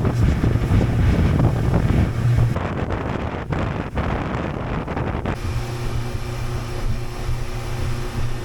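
C-Dory 22 cabin cruiser under way on its outboard motor: a steady engine hum with wind buffeting the microphone and water rushing past. About five seconds in, the wind noise eases and the engine's hum stands out more plainly.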